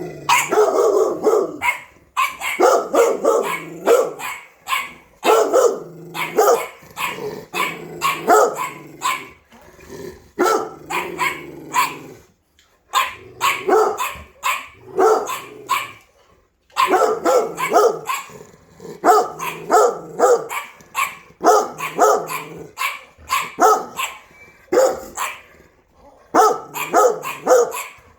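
A pit bull and a smaller dog barking over and over in quick runs of short barks, with a few pauses of about a second between runs.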